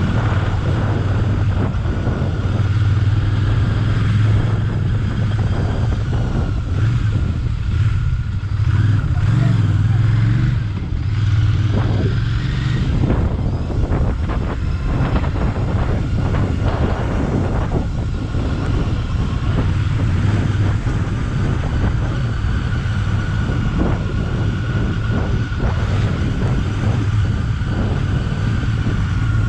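Royal Enfield Bear 650's 648 cc parallel-twin engine running steadily under way, heard from on board the motorcycle, with wind noise on the microphone.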